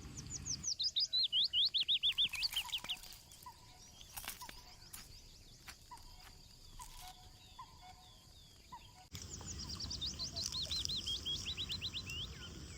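A songbird singing twice, once about half a second in and again about nine seconds in: each song is a fast run of high, repeated down-slurred notes that steps down in pitch. Faint short chirps come in between.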